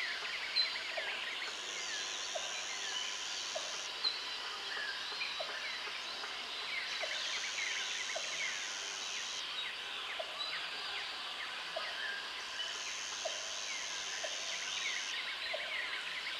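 Jungle ambience: a dense chorus of many birds chirping and calling, over insects buzzing in bouts of about two to three seconds with short breaks between. A short low call repeats about once a second throughout, and two sharper bird notes stand out near the start and about four seconds in.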